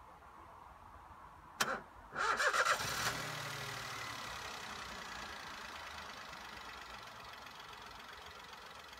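A Peugeot 107's 1.0-litre three-cylinder engine is started: a short burst from the starter about one and a half seconds in, a brief pause, then about a second of cranking before the engine catches and settles into idle, slowly getting quieter. The starter motor hesitates as it tries to start the car, the sign of a weak, worn starter motor.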